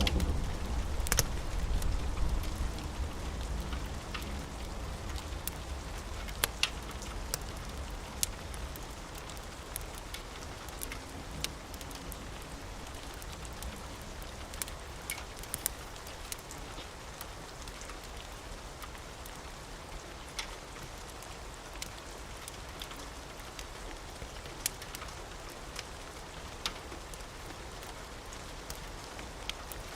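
Steady rain with scattered sharp crackles and pops from a wood fire. A low thunder rumble dies away over the first few seconds.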